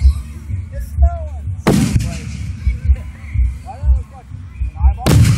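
Two firework shells bursting with loud bangs, about three and a half seconds apart, the second near the end. Under them run a steady bass beat and faint voices.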